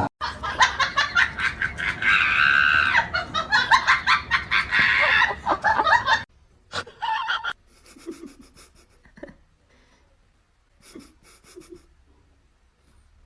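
A person laughing hard in rapid, repeated bursts for about six seconds, then an abrupt cut to fainter, scattered sounds.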